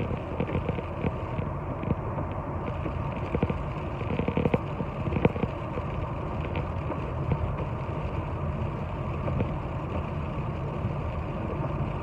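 Steady engine and road noise inside a moving car's cabin, with occasional light clicks.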